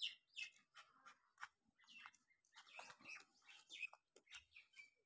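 Faint chirping of small birds, several short chirps a second, mixed with soft clicks and rustles.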